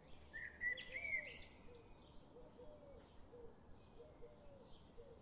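Faint outdoor birdsong: a few high chirps in the first second or so, and a run of short, low calls repeating through the rest.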